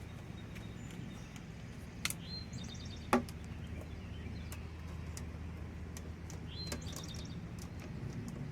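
A songbird singing the same short, high phrase twice, a rising note followed by a quick trill, over a steady low hum. A sharp click about two seconds in and a louder knock about a second later.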